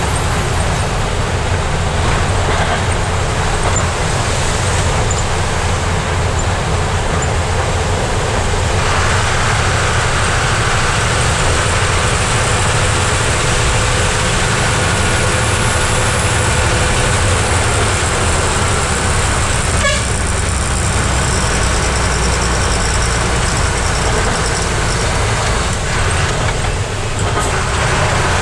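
Heavy truck's engine running steadily with road noise. The sound turns brighter and hissier from about nine seconds in.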